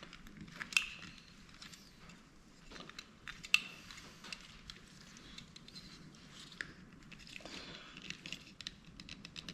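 Small hard plastic camera parts being handled and moved about on a work surface: scattered light clicks and rattles, with two sharper knocks, one about a second in and one about three and a half seconds in.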